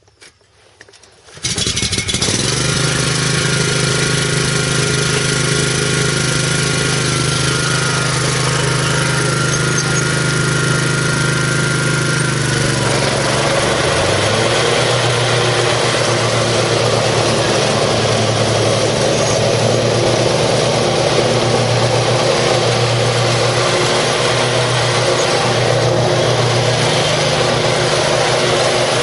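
A zero-turn mower's 17 horsepower Kawasaki engine starting up, catching about a second and a half in, then running steadily. About twelve seconds in a high whine drops out and the engine note shifts lower and rougher, and it keeps running.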